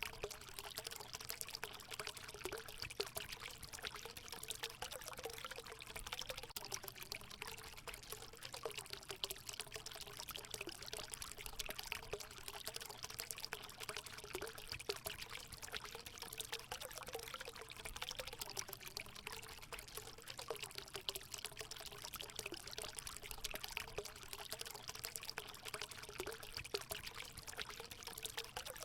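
Natural water running and pouring steadily into a hot spring pool, with a light gurgling.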